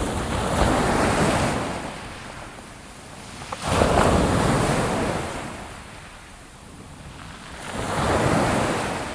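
Ocean waves breaking and washing up on a shore, three surges in about nine seconds, each swelling and then fading.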